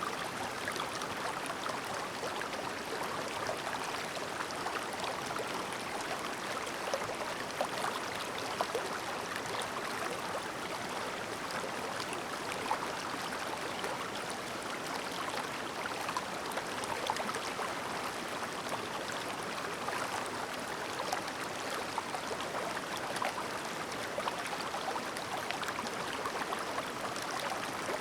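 Shallow mountain stream running over stones, a steady babble dense with small splashes and gurgles.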